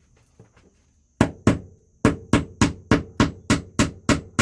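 A hammer striking repeatedly, driving the nail of a PEX pipe clip into a wooden floor joist: two blows a little over a second in, then a steady run of about three blows a second.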